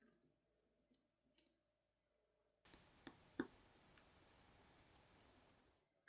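Faint, sparse clicks of small metal tools and watch parts being handled during movement disassembly. In the second half a steady faint hiss starts and stops abruptly, with two clicks, the louder one just after it starts.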